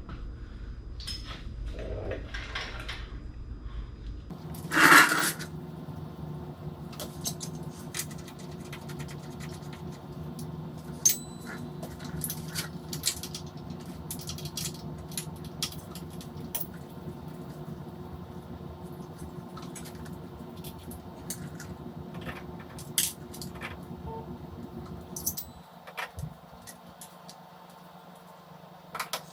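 Small metallic clicks and clinks of hand tools working on the carburetor of a 1955 BSA B33 single, over a steady background hum. About five seconds in there is one short, loud sound.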